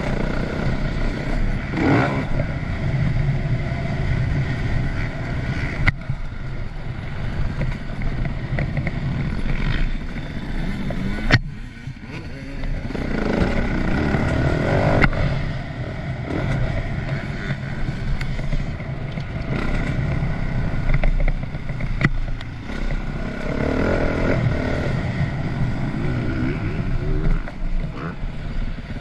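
Yamaha YZ450F motocross bike's four-stroke single-cylinder engine running hard over a track, its revs rising and falling with the throttle. It drops away briefly about twelve seconds in. A few sharp knocks come through, around six, eleven and twenty-two seconds in.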